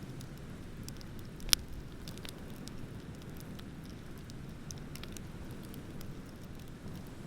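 Wood bonfire crackling with scattered small snaps and one loud pop about a second and a half in, over a steady low rush of ocean waves.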